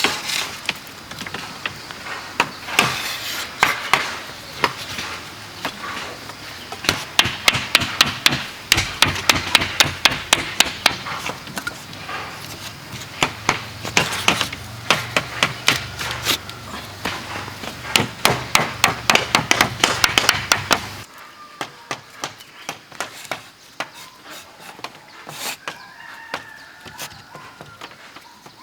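A tool striking bamboo over and over, in quick runs of sharp blows a few a second. About two-thirds of the way through, the sound drops to quieter, more widely spaced knocks.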